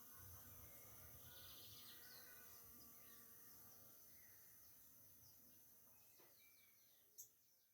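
Faint rural ambience: scattered small bird chirps and a brief insect trill, fading out near the end.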